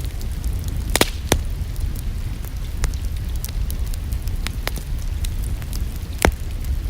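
Wood fire in a fireplace crackling, with sharp pops scattered through it (the loudest about a second in and again near the end) over a steady low rumble.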